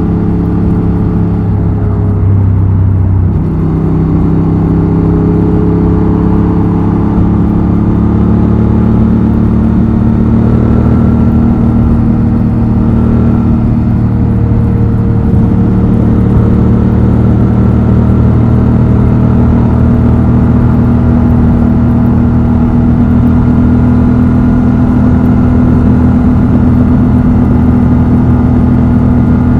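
Honda Transalp XL750's 755 cc parallel-twin engine and exhaust under way on the road. The note changes about three seconds in, as at a gear change, then holds steady and rises slowly.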